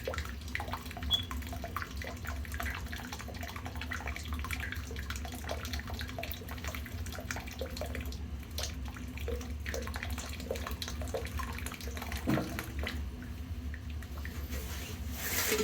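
Rusty water draining out of a steam boiler's drain valve, splashing and trickling steadily over a constant low hum, as the boiler is flushed of rust. A brief, louder rush comes near the end.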